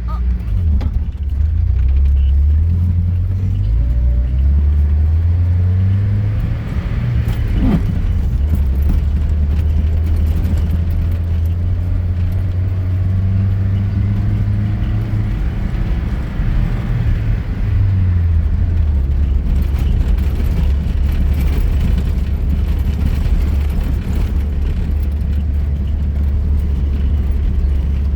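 A car engine with its road noise, driving off-road. The engine's pitch rises and falls several times as it speeds up, eases off and changes gear.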